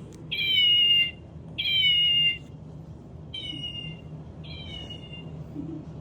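Two-month-old kitten meowing: four short, high-pitched mews about a second apart, each falling slightly in pitch, the first two loud and the last two quieter.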